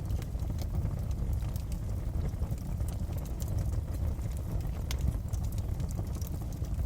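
Wood fire crackling in a fireplace: a steady low rumble of the flames with scattered sharp pops and crackles, one stronger pop about five seconds in.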